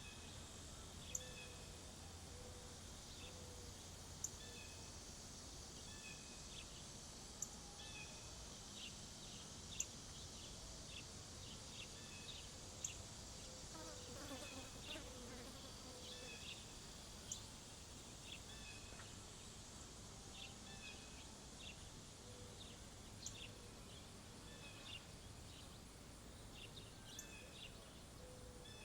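Faint outdoor birdsong: many small birds chirping and calling, with sharp, high chip notes every few seconds that stand out as the loudest sounds. A buzzing insect passes about halfway through, over a steady background hiss.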